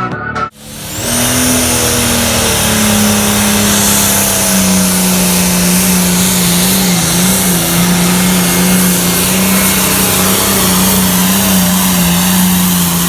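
A pulling tractor's engine at full throttle under load, hauling the sled down the track. It comes in loud about a second in, its pitch easing down slightly over the next couple of seconds, then holds a steady, loud drone with small wavers.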